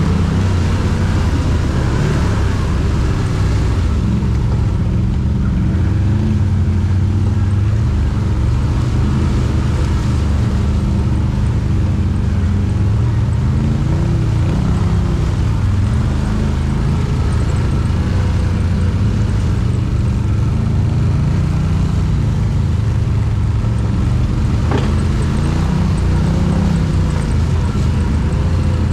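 ATV engine running at low revs, its pitch rising and falling as the throttle is worked, with a single sharp knock near the end.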